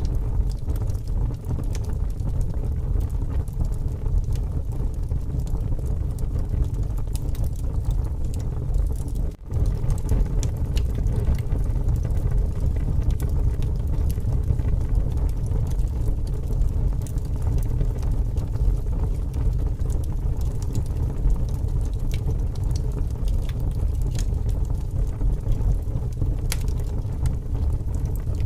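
Wood fire crackling with scattered sharp pops over a steady, heavy rumble of wind, with a brief dropout about nine seconds in.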